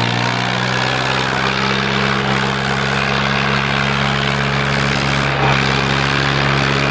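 Tractor engine running steadily at a constant speed, a deep even drone, with a brief knock about five and a half seconds in.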